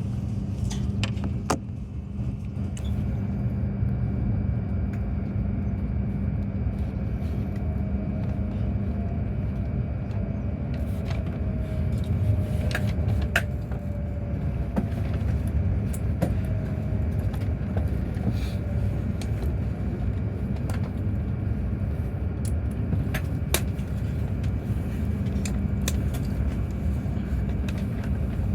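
Steady low running rumble of a moving vehicle, with a constant hum, a few sharp clicks and a faint whine that slowly falls in pitch partway through.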